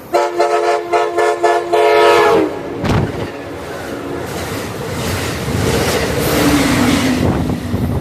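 Passenger train's air horn sounding a chord in several quick blasts, its pitch dropping as the locomotive passes. The train then goes by with a growing rumble of wheels on the rails.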